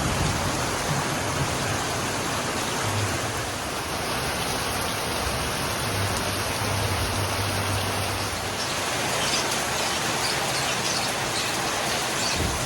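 Steady heavy rain, an even hiss of falling water. From about two-thirds of the way in, sharper patter of individual drops comes through.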